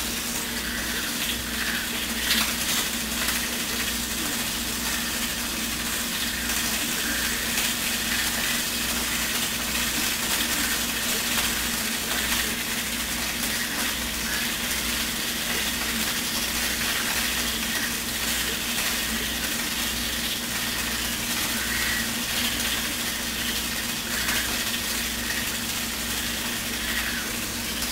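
Home aquarium running: a steady watery hiss over a constant low hum from its pump, kind of noisy.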